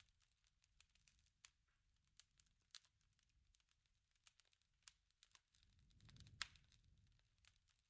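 Faint crackling of a wood fire: irregular sharp pops and snaps, with a low rush of flame swelling about six seconds in.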